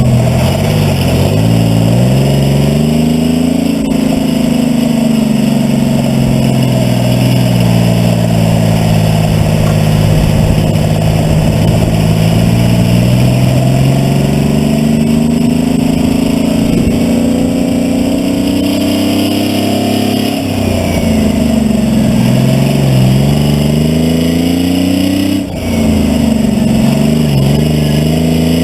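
Detroit Diesel 6V71 two-stroke V6 diesel in a cab-over Kenworth truck pulling under load, its revs climbing steadily for long stretches. The revs fall back sharply twice, about two-thirds of the way through and again near the end, then climb again.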